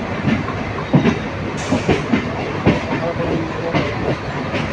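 Train wheels clacking irregularly over rail joints and points, about twice a second, over a steady rumble of a moving train.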